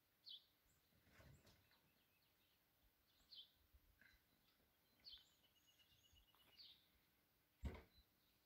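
Faint bird chirps, a short call every second or two, with a quick trill of repeated notes in the middle, over a near-silent background. A single thump near the end is the loudest sound.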